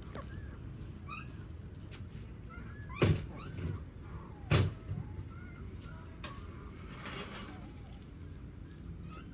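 Newborn puppies giving faint, short high squeaks, with two loud thumps about three and four and a half seconds in.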